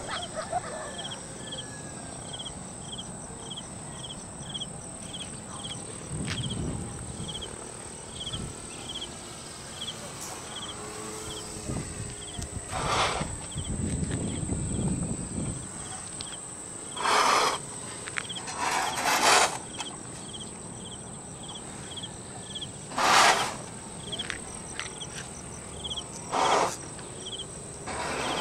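An insect chirping steadily, about twice a second, in a high pitch. Several loud, short bursts of noise, each under a second, come a few seconds apart in the second half.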